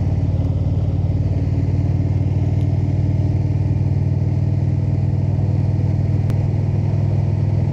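Indian motorcycle's V-twin engine running at a steady cruising speed, a continuous even engine note with road and wind noise underneath.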